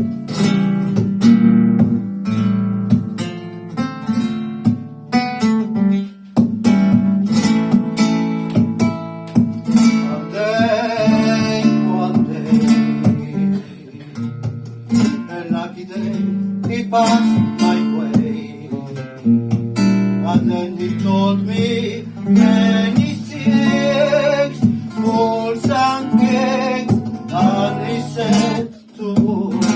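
Flamenco guitar playing a slow bulería (bulería lenta), with strummed chords and melodic runs.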